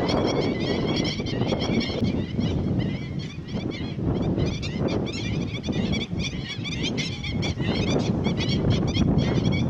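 Many birds chirping at once in a dense, continuous chatter of quick high notes, over a steady low rumble.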